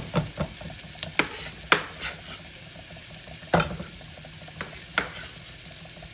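Diced red onion and green bell pepper sizzling in oil in a nonstick skillet: a steady frying hiss with a sharp click now and then, the loudest about three and a half seconds in.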